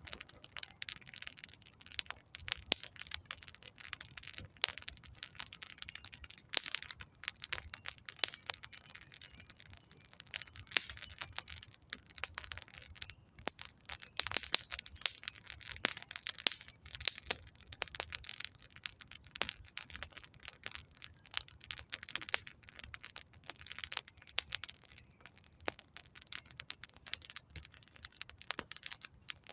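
Wood campfire crackling, with a dense run of irregular sharp pops and snaps from the burning logs.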